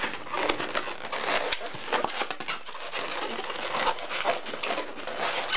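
Long latex modelling balloon squeaking and rubbing under the fingers as it is twisted into pinch twists: a dense, irregular run of short squeaks and rubbing scrapes.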